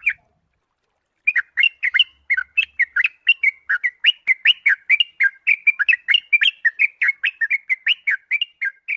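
Sooty-headed bulbul (kutilang) calling: a brisk, steady run of short chirps, about five a second, starting about a second in after a brief silence.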